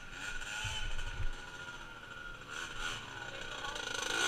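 Small off-road motor vehicle engine revving, its pitch rising and falling several times as the rider works the throttle.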